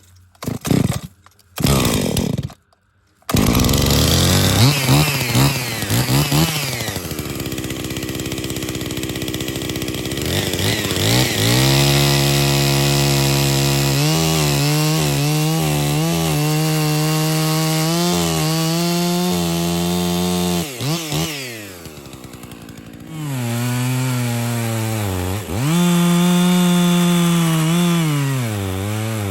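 Husqvarna 55 two-stroke chainsaw starting about three seconds in after a few short sounds, revving, then running at full throttle under load as it cuts into a tree trunk, its pitch wavering as it bogs in the cut. It drops back briefly in the middle and comes up for a second cut, with a chain that the owner takes to be dull.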